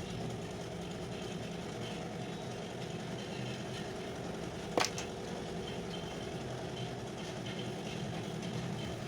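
Mixer grinder's electric motor running steadily after repair, with a single sharp click about halfway through.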